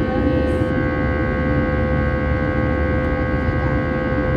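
Airliner cabin noise during the climb after takeoff: a steady rush of engines and airflow with a constant whine of engine tones.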